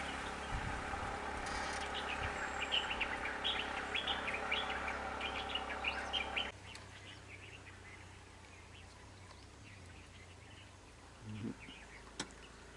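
Birds chirping: many short, quick calls over a steady background, which stop abruptly about six and a half seconds in and leave a quieter background.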